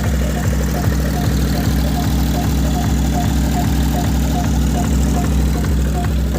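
Dance music played loud through a DJ sound system, a heavy bass beat pulsing about two and a half times a second under a repeating higher blip.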